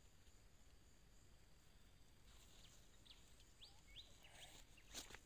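Near silence with a few faint, short bird chirps in the middle, and a single sharp click near the end.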